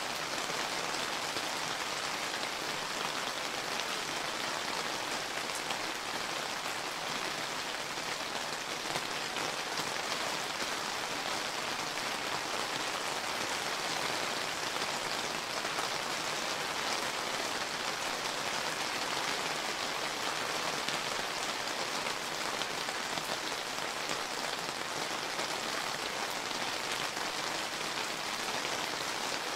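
Steady summer rain falling, an even hiss of many drops pattering on surfaces.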